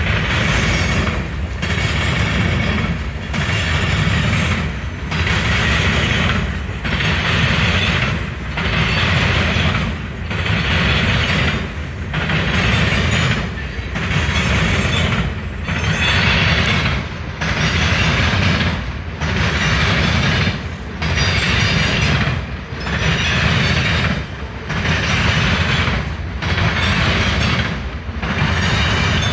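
A train passing at speed, its rumble and wheel noise swelling and dipping in a steady rhythm about every two seconds as car after car goes by.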